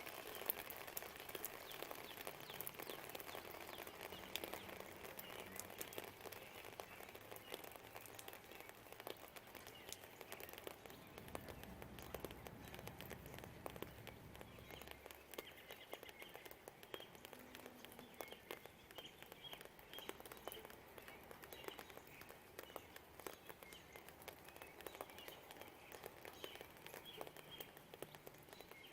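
Light rain dripping and pattering, with birds chirping, more often in the second half, and a low rumble swelling and fading around the middle from distant traffic or thunder.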